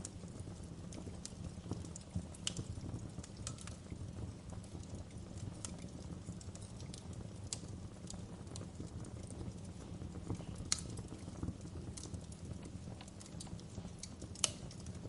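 Fireplace fire crackling: a steady low rumble with irregular sharp pops and snaps, two of them louder in the second half.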